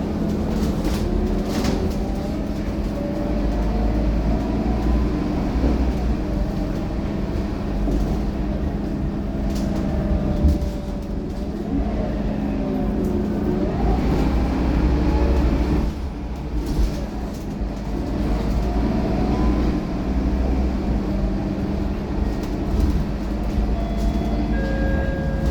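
Scania K230UB Euro V bus, with its five-cylinder diesel, running on the road: a steady low engine drone with a whine that rises and falls as the bus speeds up and slows, easing off briefly about two-thirds of the way through.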